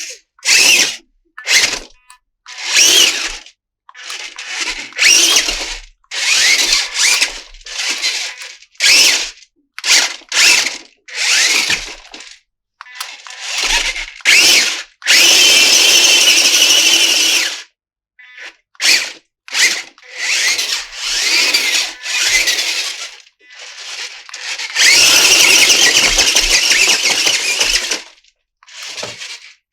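Close-up handling of plastic toy parts and packaging: a run of short scraping and rustling noises, with two longer continuous scrapes, one around the middle and one near the end.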